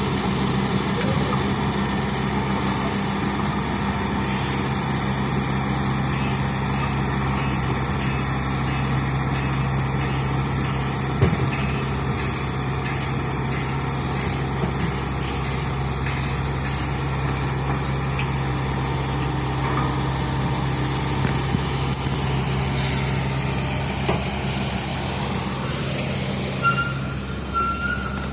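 Excavator's diesel engine running steadily, with a few sharp knocks.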